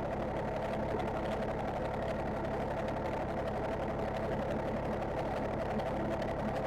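Straight-piped Detroit Diesel engine of a ramp truck running at a steady pace while driving.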